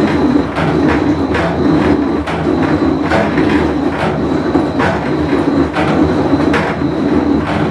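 Whirlpool Cabrio top-load washer running with a bad tub bearing: a loud, steady rumble with irregular clacks about once or twice a second and a faint high whine.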